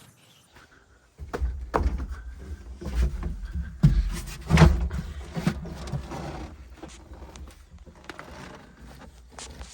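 Excavator heard from inside its cab: a low engine rumble comes in suddenly about a second in, with a run of sharp knocks and rattles, the loudest a little past the middle, then settles to a steadier rumble.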